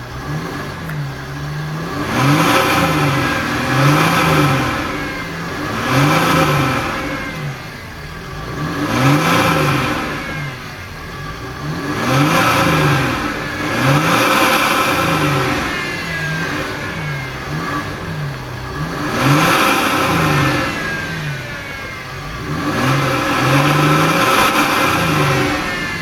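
Chrysler 300C CRD's 3.0 V6 turbodiesel being revved over and over, its exhaust note rising and falling in a dozen or so short blips, one every one to two seconds.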